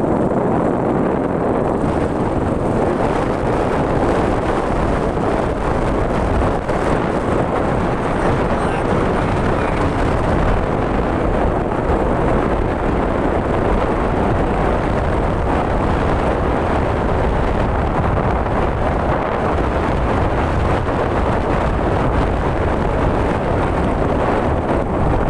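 Steady, loud rumbling wind buffeting the microphone, with no separate sounds standing out.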